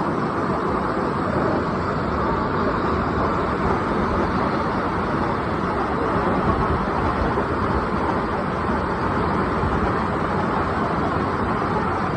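Steady roar of a waterfall: water falling and splashing continuously, with no breaks.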